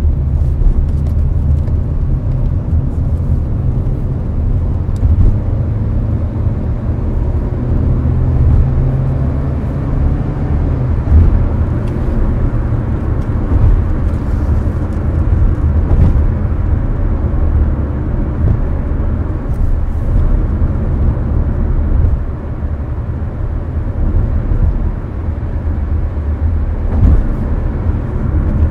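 Steady, low road and engine rumble inside a Hyundai Avante's cabin at highway speed, with the air conditioner blowing.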